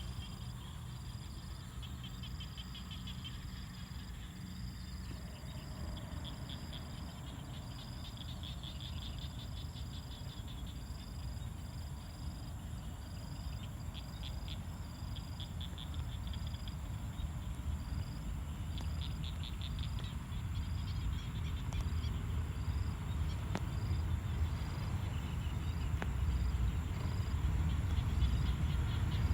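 Frogs and insects calling: a short high chirp repeating about once a second, with bursts of rapid trilling now and then. Under them a low rumble grows steadily louder over the second half as a train approaches.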